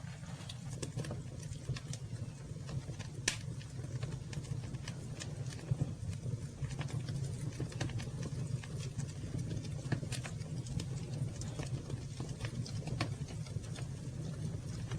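Campfire burning and crackling: irregular sharp snaps and pops over a steady low rumble, with one louder pop about three seconds in.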